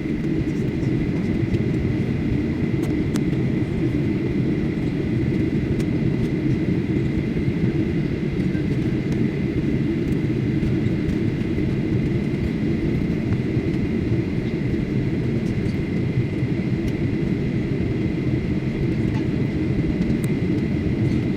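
Steady drone of an airliner's engines and airflow heard from inside the passenger cabin, with a thin, steady whine above it.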